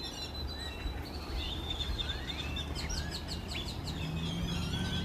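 Wild birds chirping and calling, with short rising whistled notes and a quick run of chirps about three seconds in, over a thin steady high tone and a low background rumble.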